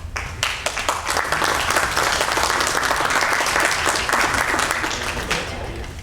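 Audience applause in a council chamber, building quickly about half a second in and tapering off near the end.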